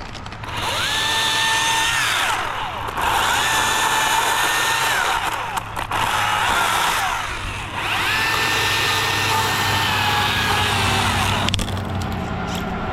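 Chainsaw run up to speed three times as it cuts wood, each run a whine that rises, holds and winds back down.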